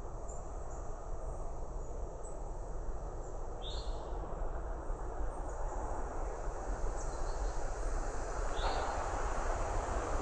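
A bird gives a short, high call note twice, about five seconds apart, over a steady low outdoor rumble of background noise.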